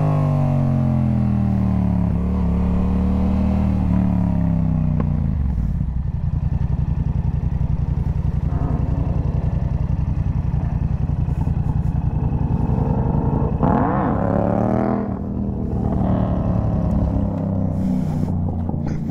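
Sport motorcycle engine coming down in revs as the bike slows and stops, then idling with an even pulse. About fourteen seconds in the throttle is blipped once, the revs rising briefly before dropping back to idle.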